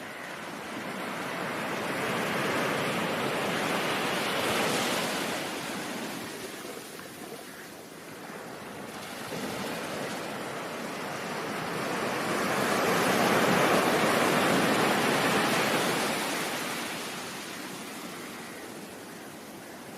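Ocean surf: two slow swells of waves washing in and ebbing away, the first peaking about five seconds in and a louder one near the middle.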